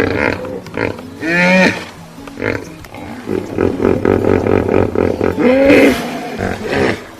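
Hippopotamus calling: a call sliding in pitch about a second and a half in, then a fast run of pulsing honks at about five a second, ending in another drawn-out call.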